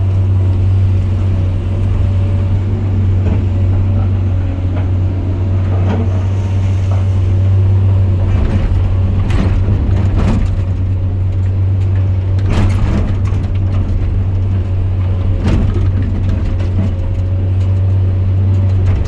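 Diesel engine of a bucket loading machine running with a steady low drone. Scattered knocks and clatters come in the middle of the stretch, from the bucket working material.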